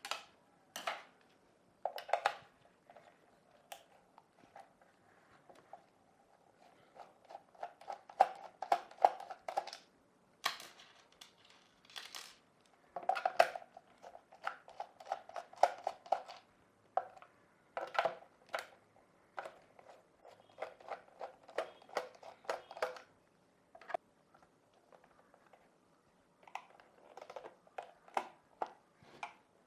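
Plastic housing of a plug-in power meter being worked open: scattered sharp clicks, scrapes and plastic creaks in irregular bursts with short pauses.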